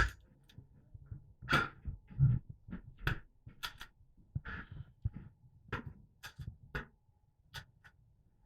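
Irregular sharp clicks and cracks of an airsoft skirmish, about a dozen spread unevenly, with a few louder snaps.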